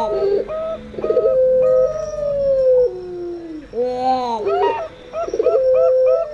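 Puter pelung doves giving long, slowly falling, howl-like coos, overlapping zebra doves (perkutut) cooing in quick runs of short repeated notes.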